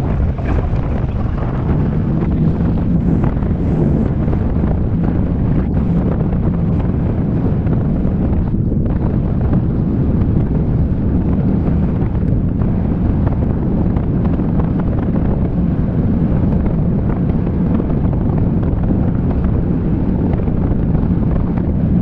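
Flat boat's outboard motor running steadily under way, with strong wind buffeting the microphone.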